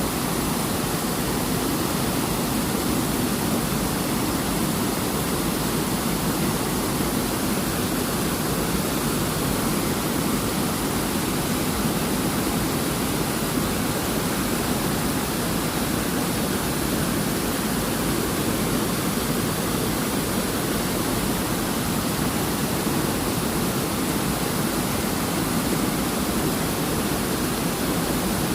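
Waterfall: falling water rushing steadily without letup.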